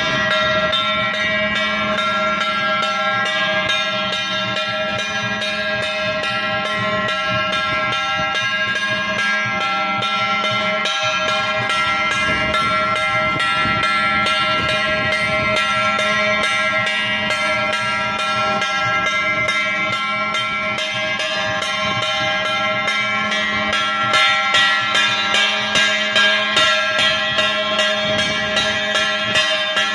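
Temple procession percussion: metal bells and gongs ringing continuously with rapid strikes, joined by a stronger pulsing beat near the end.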